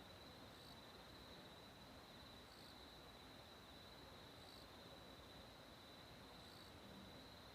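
Near silence with a faint, steady high insect trill, and a brighter chirp repeating about every two seconds.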